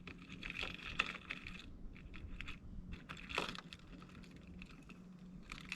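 Fishing tackle being handled: faint scattered clicks and light rattles of small items, over a low steady hum.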